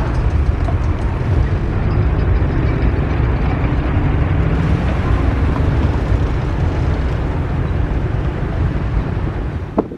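Jet airliner passing low overhead on landing approach: a loud, steady, deep engine rumble.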